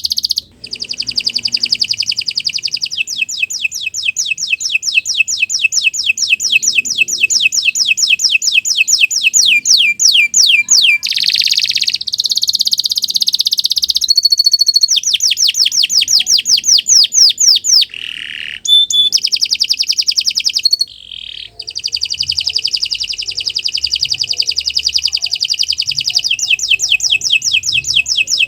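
Domestic canary singing a long, nearly unbroken song of fast repeated notes and rolling trills, pausing briefly only a few times.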